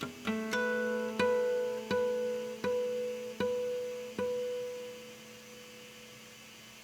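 Solo classical guitar playing a run of about seven repeated plucked chords, roughly one every 0.7 s. The last chord is left to ring and dies away about five seconds in, closing the piece.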